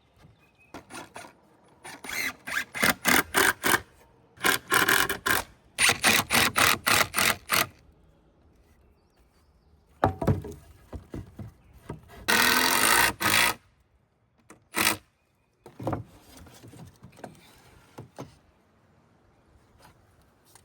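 Hand saw cutting through a wooden 2x4, in two runs of quick rasping strokes, about five a second. A little past the middle comes a louder steady noise lasting about a second, followed by a few scattered knocks.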